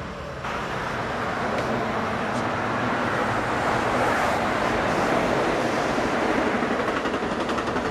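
Amtrak Pacific Surfliner passenger train passing along the coastal line, its rushing wheel noise mixed with highway traffic and growing louder, with a quick run of clicks near the end.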